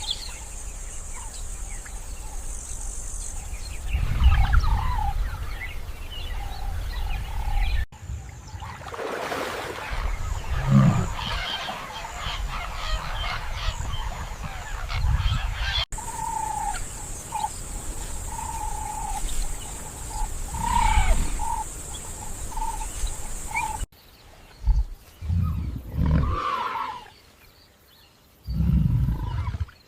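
Savannah wildlife sounds in four abrupt cuts: a low wind-like rumble with scattered bird calls, a steady high whine in two of the cuts, and a big cat roaring in several short, loud bursts in the last few seconds.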